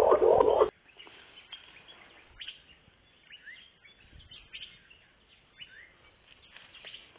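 A man's voice that stops abruptly less than a second in, then faint birds chirping, short rising calls roughly once a second.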